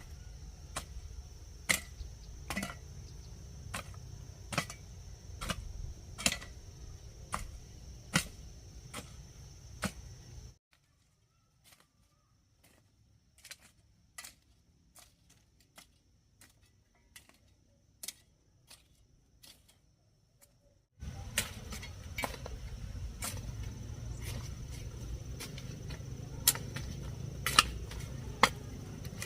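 A series of sharp knocks or chops, irregular and roughly one or two a second, over a low rumble and a steady high insect-like tone. For about ten seconds in the middle everything drops much quieter and the knocks are faint.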